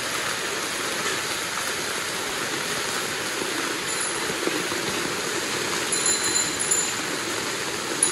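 Heavy rain pouring steadily onto a flooded street: a dense, even hiss. A brief high ringing comes in about six seconds in.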